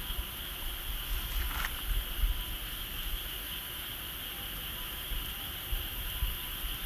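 Steady high-pitched insect chorus, with irregular low rumbling underneath.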